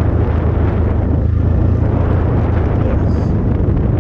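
Templar X 250 dirt bike engine running while riding downhill, heavily masked by strong wind buffeting the microphone as a steady low rumble.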